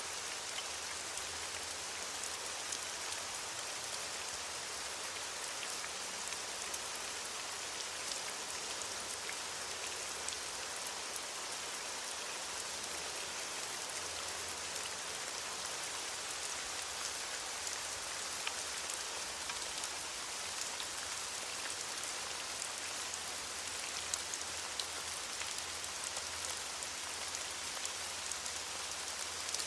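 Steady rain falling on leaves, an even hiss with many small drop ticks.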